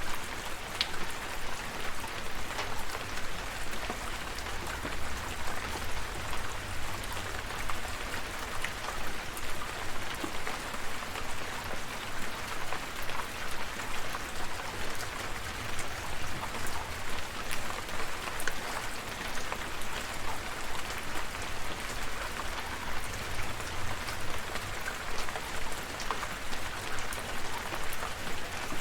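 Steady rain falling, with many individual drops pattering on a surface over an even hiss and a faint low rumble underneath.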